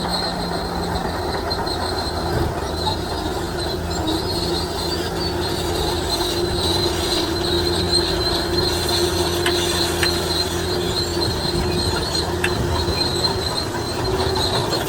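Shantui DH17C3 crawler bulldozer running steadily under load, its engine drone carrying a steady high-pitched whine.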